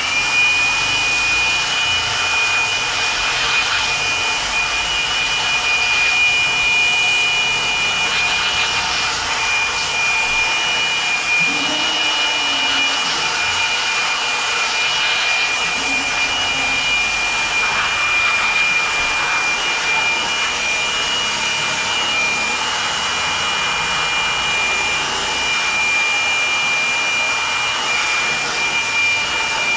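An electric motor starts up, its whine rising to a steady high pitch within the first second, then runs steadily over a loud hiss.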